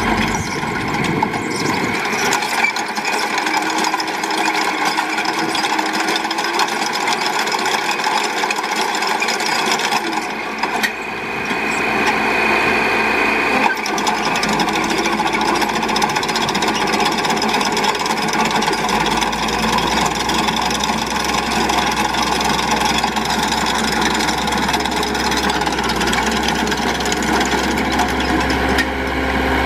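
Case DH4 articulated trencher backhoe running: a steady engine with a dense, rasping mechanical grinding over it. The low engine note comes in stronger about ten seconds in.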